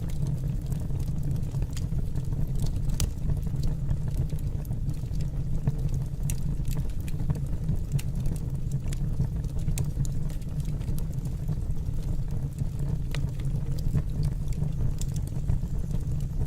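Wood fire burning in a fireplace: a steady low rumble of the flames with scattered crackles and pops.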